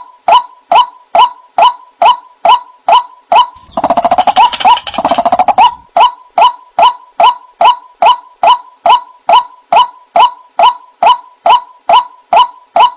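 White-breasted waterhen (ruak-ruak) calling over and over, short notes about two and a half a second, with a busier, tangled run of calls about four to six seconds in. It is a looped lure recording for attracting the birds.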